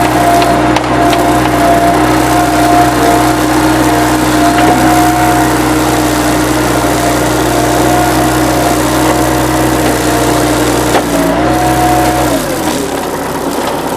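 Dump trailer's hydraulic pump running with a steady whine while the bed tips the load; near the end its pitch sags and it cuts off.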